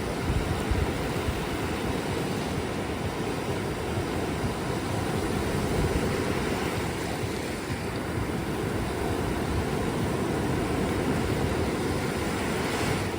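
Ocean surf washing on a beach: a steady rush of waves that swells gently, with no single sharp crash.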